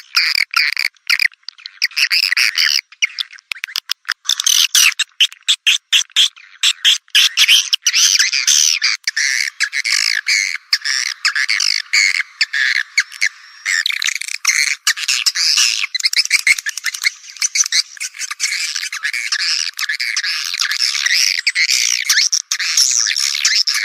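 Recorded edible-nest swiftlet calls played as a swiftlet-house lure: a dense, high twittering chatter of many birds with no low tones at all. It is choppy in short bursts at first and turns into a near-continuous chatter about nine seconds in.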